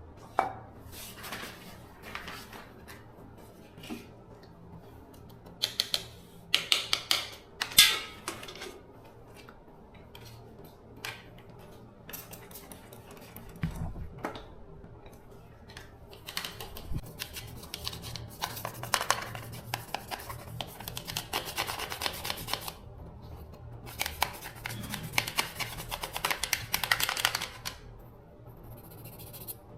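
Hand work on small parts at a workbench: irregular clicks and taps, with several loud bursts of scraping or rasping a second or two long.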